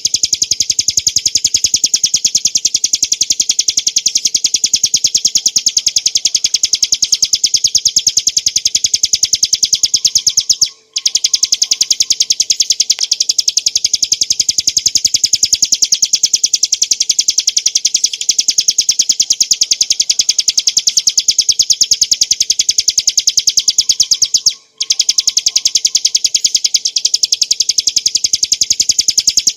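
Ciblek gunung (a prinia) singing its rapid 'ngebren' trill: very fast repeated high notes run together into one continuous buzz-like song, broken only by two short pauses.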